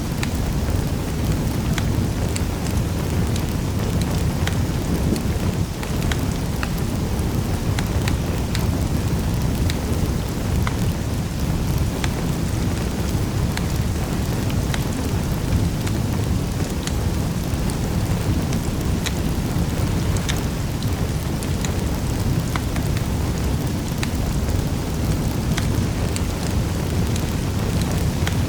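Wood fire in a fireplace crackling, with sharp pops scattered at irregular intervals over a steady low rumble of the burning fire.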